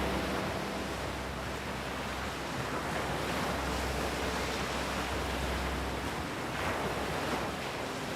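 Ocean sound bed: a steady wash of surf-like noise that swells now and then, over a low steady drone.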